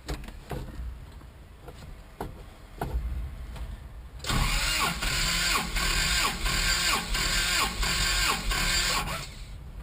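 Starter motor cranking a freshly rebuilt Toyota engine for about five seconds, starting about four seconds in, with an even beat of about two pulses a second. The engine turns over but does not catch, and the cranking stops abruptly.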